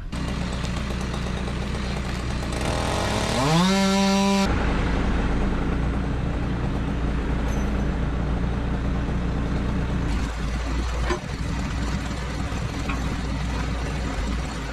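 Tractor engine running steadily. About three seconds in, an engine revs up, holds high for a moment and cuts off suddenly.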